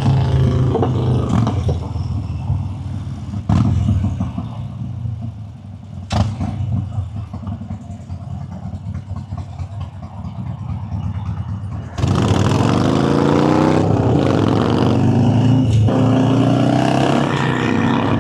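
Motorcycle engine running under way, held at an easy pace for about twelve seconds, then the throttle opens and the engine pulls harder, its pitch rising through the revs, and climbs again near the end.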